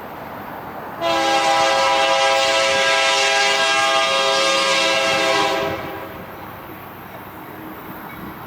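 Diesel locomotive air horn sounding one long blast of about four and a half seconds, several notes at once, starting about a second in and cutting off, over the low rumble of a train.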